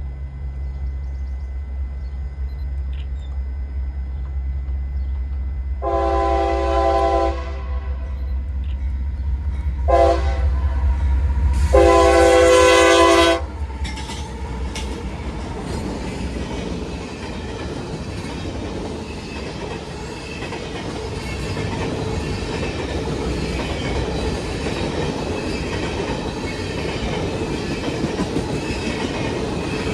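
Diesel locomotive's multi-tone air horn sounding a long, a short and a long blast over the low rumble of the engine. After the last blast the train rolls past with a steady rush of wheels on rail and clicking over the rail joints.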